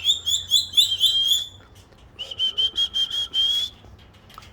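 Whistling: a warbling run of whistled notes, then a string of about eight short, even whistles rising slightly at the end.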